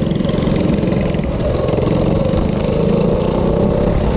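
Minibike's small engine running steadily, its pitch shifting a little.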